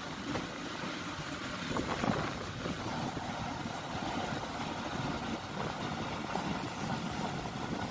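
A preserved steam-hauled passenger train running along the line, heard from an open carriage window: a steady rumble of wheels on track, with a few sharp knocks about two seconds in.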